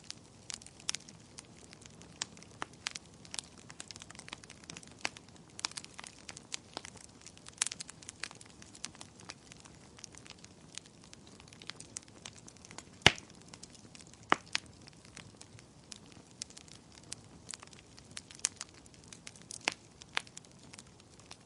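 Wood fire crackling with irregular sharp pops, one much louder pop about thirteen seconds in and another a second later.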